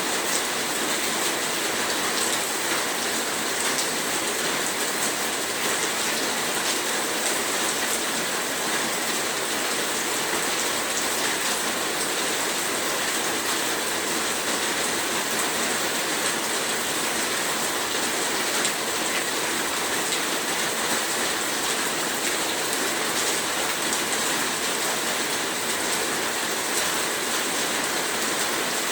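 Heavy rain falling steadily, a dense, even hiss of many drops with no let-up.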